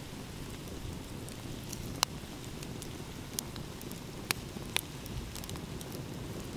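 Campfire crackling, with scattered small ticks and a few sharp pops, the loudest about two seconds in, over a steady low rumble of sea waves.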